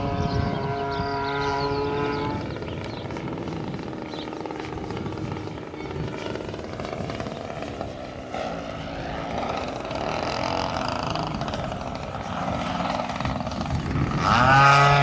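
RC model airplane's motor and propeller running steadily, fading after about two seconds into a noisy background, then coming back loud and rising sharply in pitch near the end.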